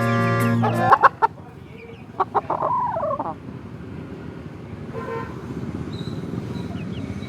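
Chickens clucking: after background music stops about a second in, a few short sharp clucks, then one longer wavering call, then fainter clucks over a low steady background.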